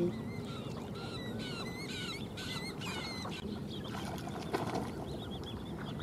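Faint, thin, high-pitched bird calls, a quick run of short chirps or peeps in the first half, over quiet outdoor lakeside ambience.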